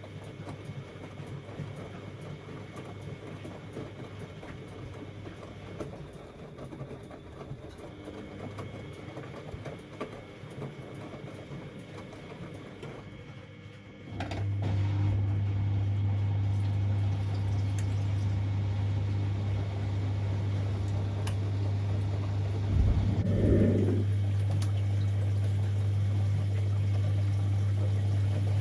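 Siemens Extraklasse XLs 140 A washing machine's drain pump starting about halfway through with a steady low hum as it pumps out the wash water, with a short gurgle near the end. Before the pump starts there is only a faint steady background.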